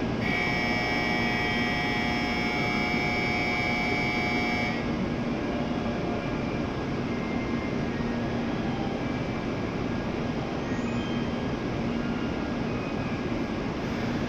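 Steady hum and general platform noise beside a standing N700S Shinkansen train. A held electronic tone of several pitches starts at once and cuts off abruptly after about four and a half seconds.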